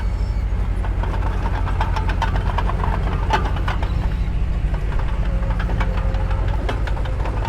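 A heavy construction machine's diesel engine running steadily with a fast low throb, with metal clanks and rattles coming in bursts in the middle.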